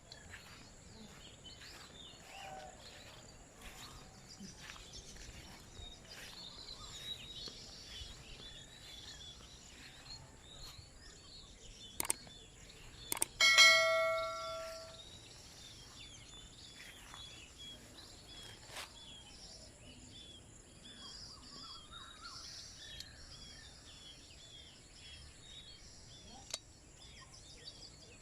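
Wild birds calling, with one short chirp repeated over and over, above a steady high-pitched insect drone. About halfway through, two sharp clicks are followed by a single metallic bell-like ring that fades over a second or so, the loudest sound.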